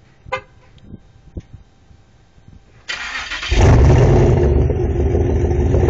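A few light knocks, then near the end the 2006 Pontiac Grand Prix GXP's 5.3 L V8 is cranked and starts, flaring loudly and settling into a steady, deep idle through its catless exhaust, which has the mufflers cut out and only the factory resonator left.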